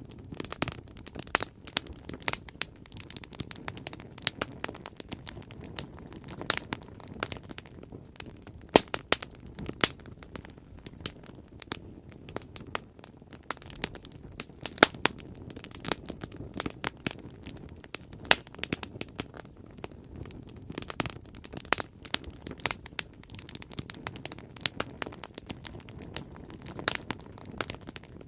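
Bonfire burning, a steady low rush of flame with sharp crackles and pops of burning wood at irregular moments.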